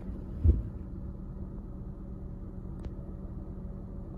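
A car engine idling with a steady low hum, with one heavy thump about half a second in.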